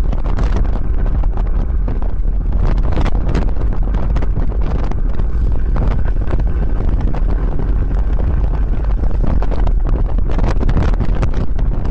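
Heavy wind buffeting a bike-mounted microphone while cycling, a steady low rumble with frequent crackling gusts.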